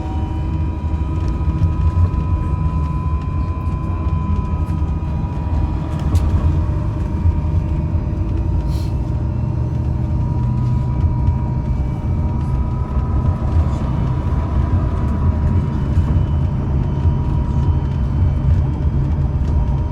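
MAZ-203T70 trolleybus driving, heard from inside the passenger cabin: steady low road and body rumble with the thin whine of the electric traction drive, its pitch drifting slightly with speed, and a few light rattles.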